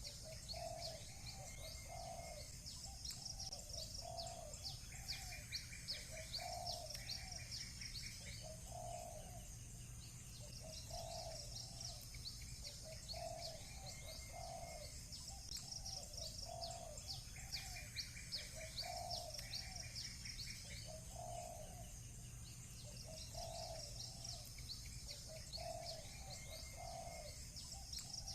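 Village birdsong: a low cooing call repeated about once a second, typical of doves, over dense high chirping from small birds, with short rapid trills every few seconds. A faint steady low hum runs underneath.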